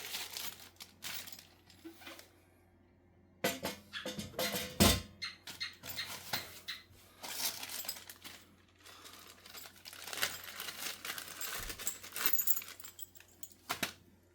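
Hands rummaging through packaging and equipment parts: irregular rustling and crinkling with clicks and clatters, and one louder thump about five seconds in.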